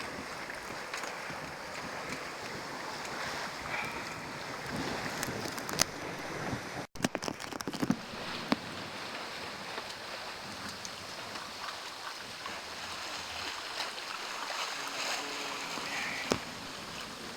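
Steady rush of water and wind aboard a heeling sailboat under way, with wind buffeting the microphone, a few sharp knocks, and a brief break about seven seconds in.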